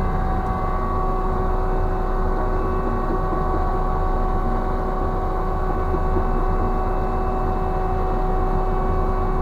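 Ship's deck crane machinery running steadily: a constant low drone with a steady whine over it.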